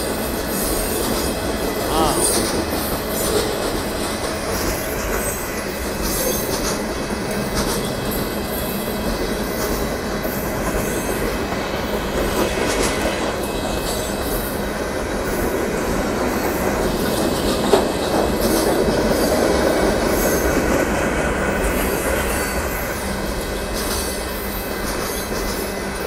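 Freight train of boxcars rolling steadily past a grade crossing: steel wheels rumbling and clattering over the rails, with one sharp clank about eighteen seconds in.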